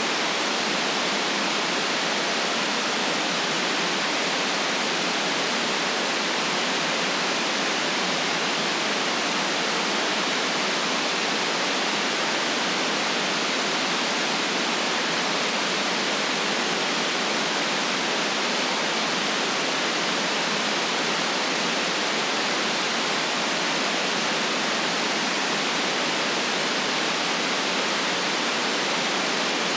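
Steady, unchanging white noise: an even hiss with no deep rumble and no variation.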